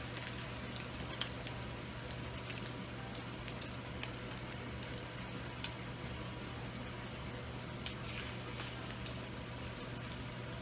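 Egg-battered sausage slices sizzling in oil in a frying pan: a steady hiss with a few sharp pops of spitting oil.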